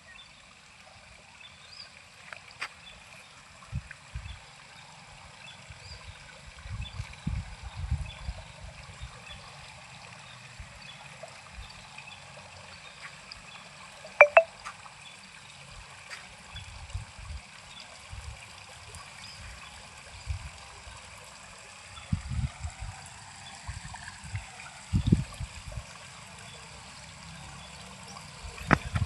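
Steady trickle of running water, with scattered low thumps and one sharp click about fourteen seconds in.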